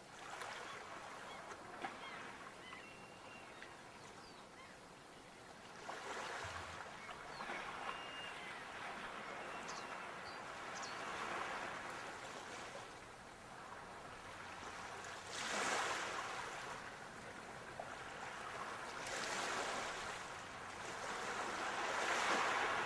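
Sea waves washing in, with a noisy rush that swells several times, loudest about two-thirds of the way through and near the end. Short faint bird calls come in the first half.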